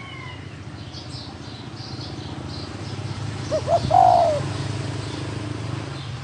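Spotted dove cooing once, about three and a half seconds in: two short notes and then a longer one. Faint chirping from small birds and a steady low hum run underneath.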